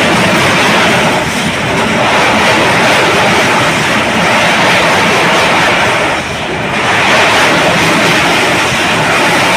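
Passenger train running at speed: a steady, loud rushing roar of wheels on rails and air, with a brief dip about six seconds in.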